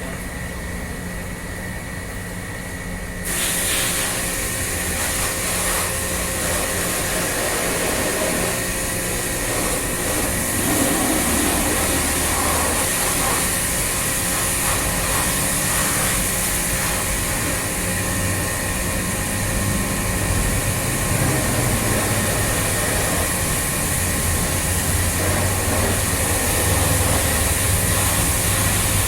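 A machine running steadily with a low hum, joined about three seconds in by a loud, even hiss that keeps on.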